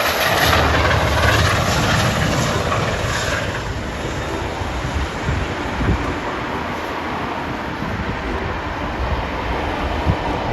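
Diesel-hauled train passing, on the rail tour with Class 45 'Peak' diesel 45118. It is loud at first and eases over the first few seconds into a steady rumble of rolling stock.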